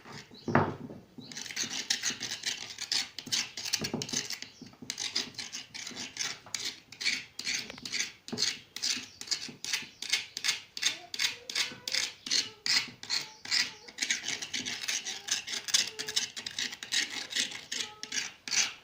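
Rhythmic rasping scrapes, about three strokes a second, steady throughout.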